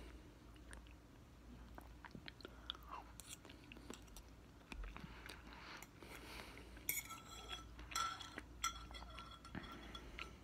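Chewing of sliced mango close to the mouth, with small scattered mouth clicks. About seven seconds in, a fork clinks against a dish three times, each strike ringing briefly.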